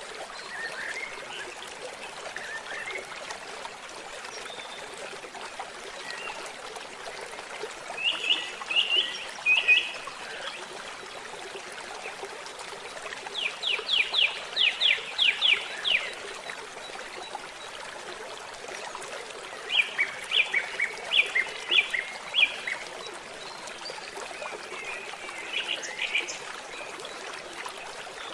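Steady trickling of a forest stream, with birds calling over it in several bouts of quick, repeated high notes; the middle bout is a fast run of about ten notes.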